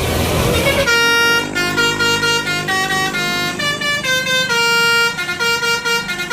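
Telolet-style multi-tone bus horn playing a tune in short stepped notes, over a noisy low rumble that stops about a second in.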